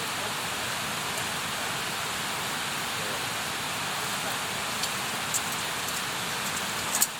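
Campfire burning with a steady hiss and a few sharp crackles from the wood, the loudest pop near the end.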